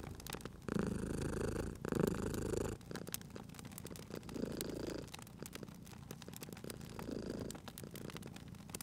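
Domestic cat purring in a slow in-and-out rhythm, each swell lasting about a second, louder in the first few seconds and softer after. Small crackles and pops of a wood fire go on underneath.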